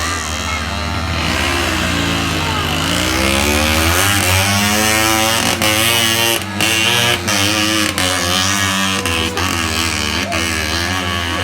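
Motorcycle engine running steadily, with a voice over it.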